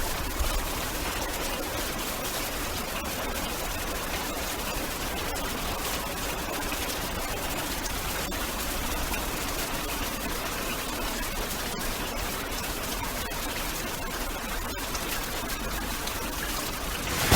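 Steady hiss of rain falling, with a few faint ticks of drops scattered through it.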